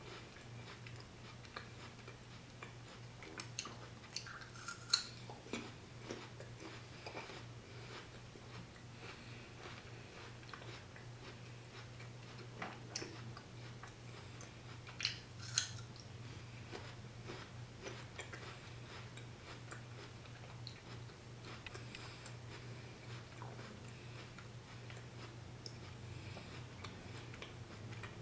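Close-up mouth sounds of chewing crunchy raw jicama fries and a bison cheeseburger: soft chewing with scattered crisp bites and crunches, the loudest about five seconds in and again around fifteen seconds in.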